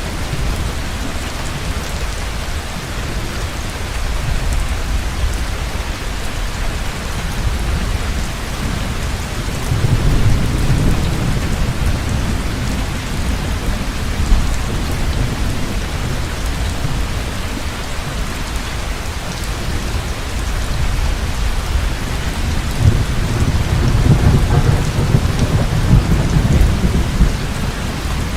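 Heavy rain falling steadily, with two low rolls of thunder: one about ten seconds in, and a longer one near the end.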